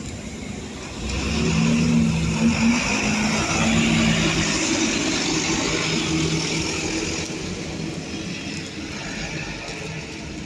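A road vehicle's engine passing close by and accelerating away, growing loud about a second in and then fading slowly.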